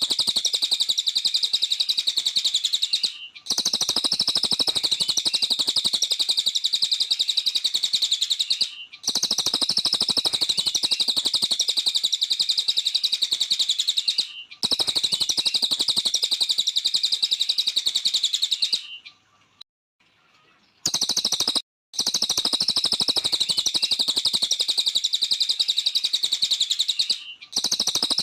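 A cililin songbird in full song: a rapid, unbroken, high-pitched chattering stream. It comes in stretches of about five seconds, each cut off by a short gap, which sounds like a looped recording.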